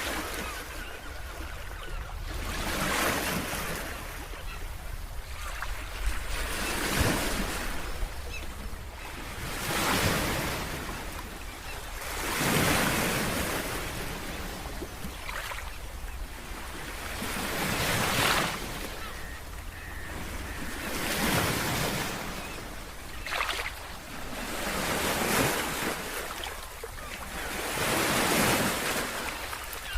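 Ocean waves breaking on a shore, a swelling wash of surf roughly every three seconds over a steady low rumble.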